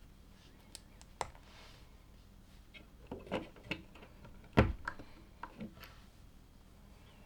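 LEGO plastic pieces being handled and snapped together: scattered small clicks and taps, with one louder knock about four and a half seconds in.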